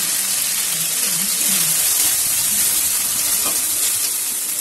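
Onion and ginger-garlic-chilli paste with turmeric sizzling steadily in hot mustard oil in a metal kadai while a metal spatula stirs it.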